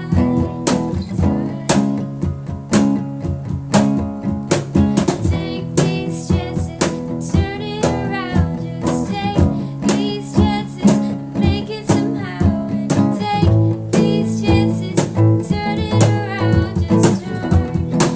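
Strummed acoustic guitars with a singer, kept in time by beatboxed percussion: sharp clicks and kick-like hits in a steady rhythm under the melody.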